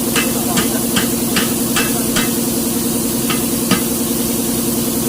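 Hino truck's diesel engine idling steadily, with a run of sharp clicks about two and a half a second for the first two seconds and two more a little later.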